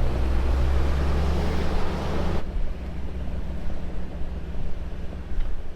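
Vehicle engine running with a steady low drone under a rushing road and wind noise; the rushing noise drops off sharply about two and a half seconds in while the engine keeps running.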